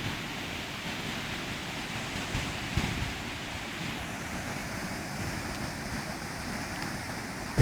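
Steady rush of floodwater running down a rambla after heavy rain, with wind buffeting the microphone.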